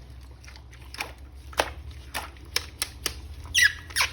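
Irregular plastic clicks and taps from handling an action figure and its packaging, with a short squeak near the end.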